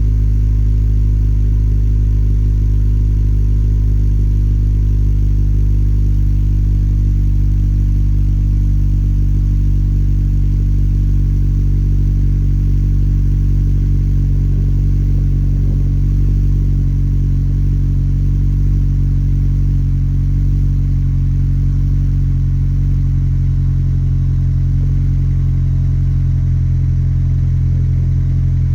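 Acura RSX Type-S 2.0-litre inline-four idling steadily through an aftermarket Tanabe Medalion exhaust, a constant low engine note with no revving.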